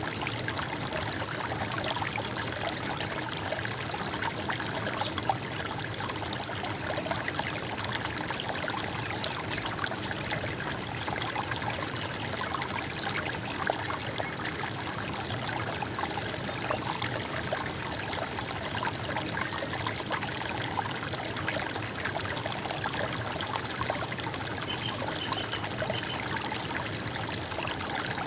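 Stream of water running and trickling steadily, with small splashes scattered through it.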